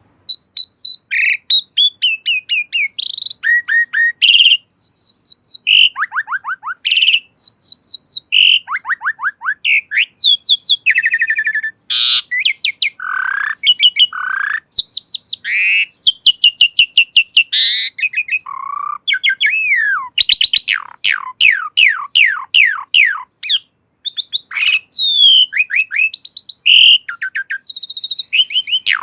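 Asian pied starling (jalak suren) singing a long, varied song of whistles and chattering phrases, with a long run of quick falling notes about two-thirds of the way through.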